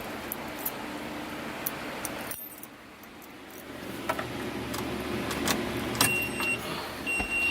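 Ignition keys jangling and clicking at the dash of a 2000 Blue Bird school bus as the key is switched on for a diesel start. The background hum cuts out briefly about two and a half seconds in, then a dashboard warning beeper sounds twice near the end, about a second apart, while the glow plugs warm before cranking.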